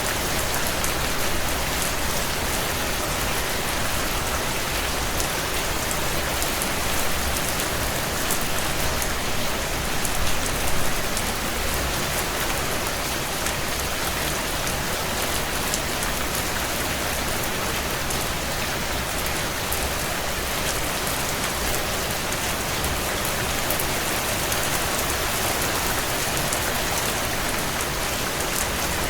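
Steady heavy rain pattering on window glass, an even hiss with a low rumble beneath and fine ticks of drops over it, swelling briefly about ten seconds in.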